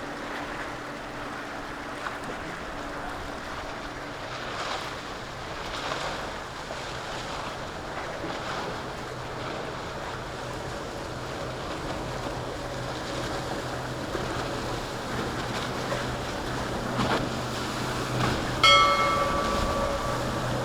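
Boat engines running amid waves and surf, with some wind on the microphone; the low engine hum grows louder over the last few seconds. Near the end a steady high-pitched tone sounds for about two seconds.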